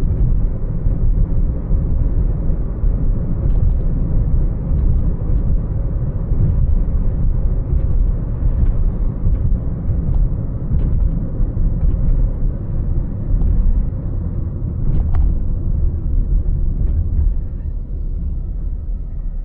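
A car driving: a steady low rumble of road and engine noise, with a few faint clicks, easing slightly near the end.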